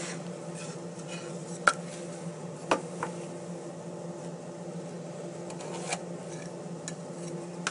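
Steady low hum from a running machine or motor, with two sharp knocks about a second apart near the start and a few fainter clicks.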